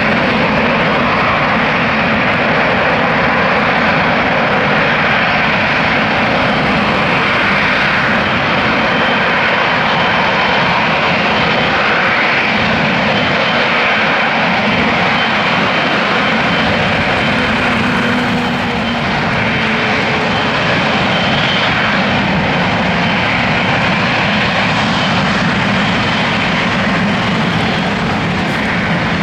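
Jet engines of a Boeing 777-300ER, its twin GE90-115B turbofans, running loud and steady with a continuous roar and a faint high whine.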